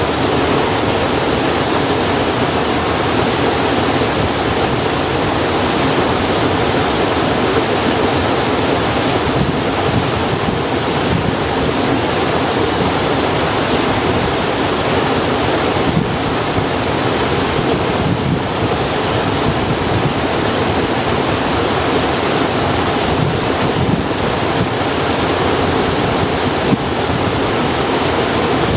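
Steady, even rushing noise like running water, unbroken throughout, with no distinct crackles standing out.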